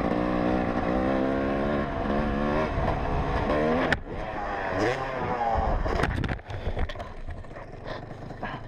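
Dirt bike engine revving with rising pitch, then a sharp bang about four seconds in, followed by uneven revs and several clattering knocks around six seconds in: the sounds of the bike crashing off a ramp.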